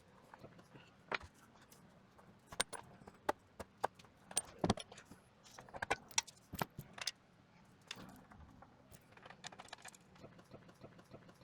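Scattered light clicks and knocks of things being handled, irregular and thickest in the first seven seconds, then sparser and fainter.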